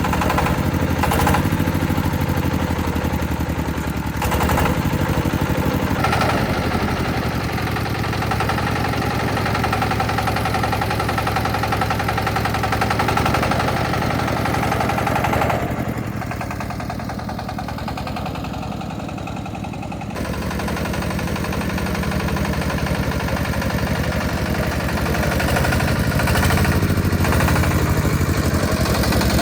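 Concrete mixer's engine running steadily, a little quieter for a few seconds past the middle, with a few knocks in the first several seconds.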